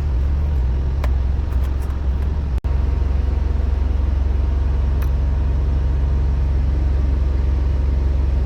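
Semi-truck diesel engine running at a steady speed, a low, even rumble, with a brief dropout about two and a half seconds in and a few light clicks early on.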